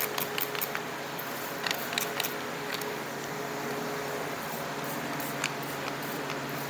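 Trigger spray bottle spritzing acid brightener: short, sharp squirts at irregular intervals, a cluster at the start, a few around two seconds in and more near the end. A steady hum runs underneath.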